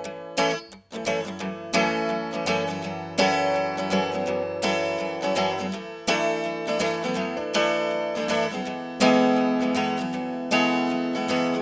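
Acoustic guitar strumming chords: the instrumental intro of a song, with no singing yet.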